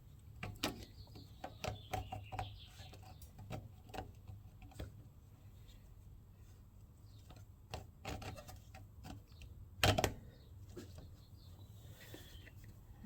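Small engine parts and tools being handled during reassembly: scattered light clicks and knocks, with one louder knock about ten seconds in, over a steady low hum.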